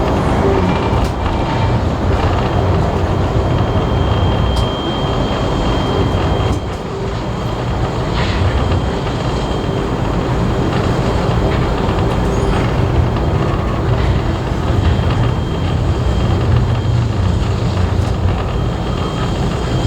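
Passenger carriage rolling along the rails, a steady, heavy running noise heard from on board. A thin high whine sounds briefly about a third of the way in and again through the last part.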